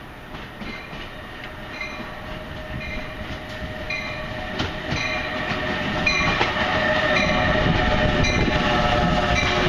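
Passenger train approaching on the main line and passing close by, growing steadily louder throughout. A steady whine strengthens as it nears, with short regular clicks about once a second over a rising rumble.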